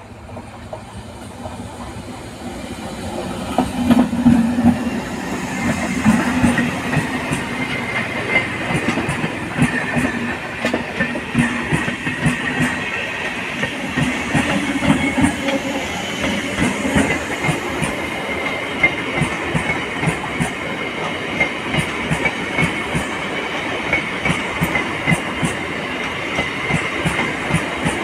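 Indian Railways passenger train passing close at speed. It grows louder over the first few seconds as it nears. Then comes a steady run of wheel clatter over the rail joints, with a thin high whine from the wheels underneath.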